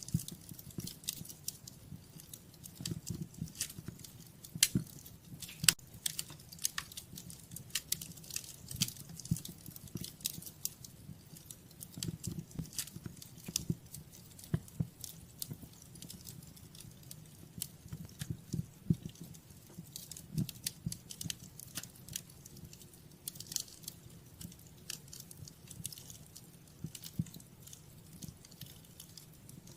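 Wood fire crackling in a fireplace: irregular snaps and pops, some sharp and loud, over a low rumble of the burning logs.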